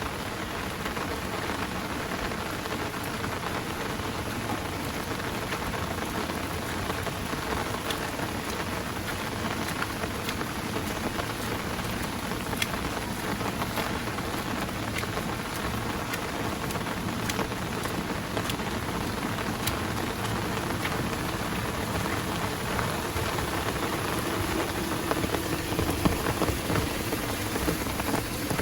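Heavy rain falling steadily, with many separate drops ticking close to the microphone.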